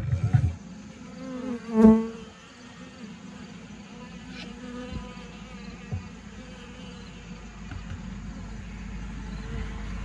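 Honeybees buzzing around an open hive: a steady hum, with one loud close buzz about two seconds in. A few sharp knocks at the start.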